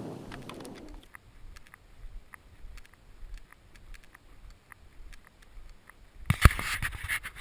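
Scattered light clicks and crackles, then a little after six seconds a loud thump followed by crunching and rustling close to the microphone.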